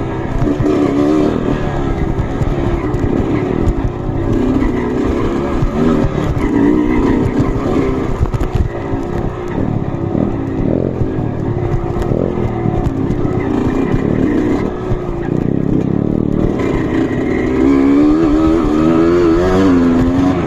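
Off-road trail motorcycle engines running under load, revving up and down repeatedly as the bikes work along a rough trail.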